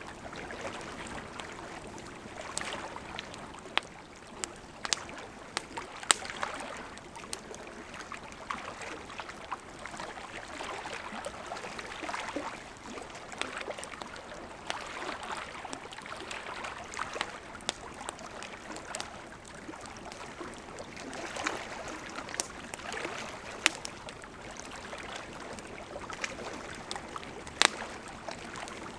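Wood campfire burning: a steady hiss of flames with irregular sharp crackles and pops of burning wood, a couple of louder pops about six seconds in and near the end.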